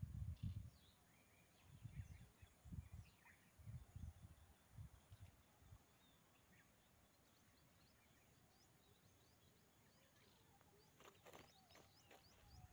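Quiet open-air ambience with faint, scattered chirps of small birds. Low muffled bumps come in the first half, and a few sharp clicks sound near the end.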